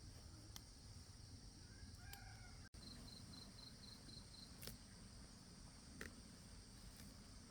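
Faint outdoor ambience dominated by a steady high-pitched insect drone. About three seconds in there is a short run of rapid, evenly spaced chirps, and a few faint clicks come through.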